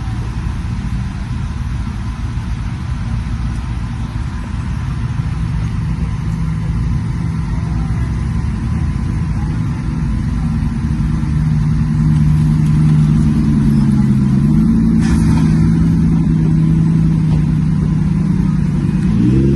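Car engine running at a steady pitch and growing louder about halfway through. Its note dips briefly about three-quarters of the way in, then recovers and rises at the very end as it is revved.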